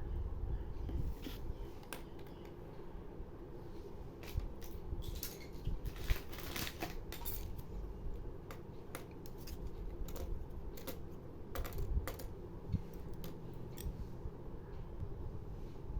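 Irregular light clicks and taps of small objects being handled, over a low steady rumble; the clicks come thickest in the middle.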